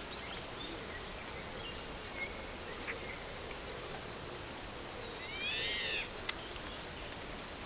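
Faint outdoor ambience with a few short chirps, and one clearer bird call about five seconds in that rises and falls in pitch and lasts about a second.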